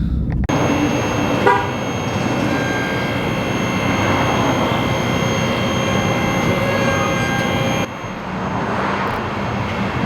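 Steady road and traffic noise from a moving car, with a short car-horn toot about a second and a half in.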